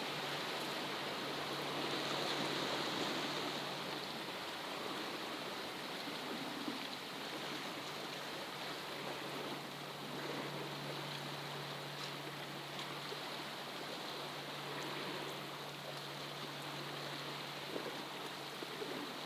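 Steady rushing noise, with a faint low hum joining it about a second and a half in.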